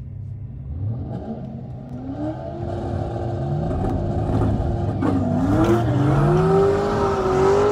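2009 BMW 335i's twin-turbocharged inline-six, heard from inside the cabin. It revs up and is held steady on the start line, then the car launches about five seconds in and the engine's pitch dips and climbs as it accelerates down the strip.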